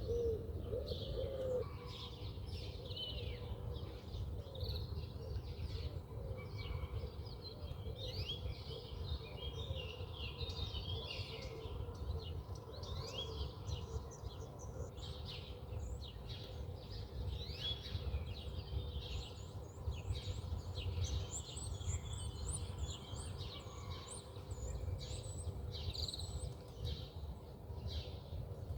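Many small birds chirping and twittering continuously, several calls overlapping, over a steady low rumble.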